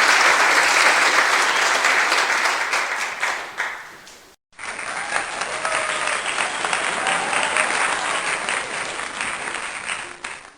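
Two crowd applause recordings in turn: the first, dense clapping, fades out about four seconds in; after a brief silence a second round of crowd applause starts and fades away near the end.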